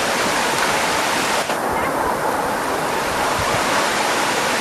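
Waterfall rushing: a loud, steady roar of falling water. The higher hiss dulls for a second or two about a second and a half in.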